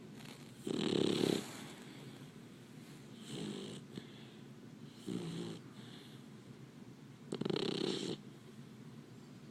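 Labrador puppy snoring: four snores about two seconds apart, the first the loudest.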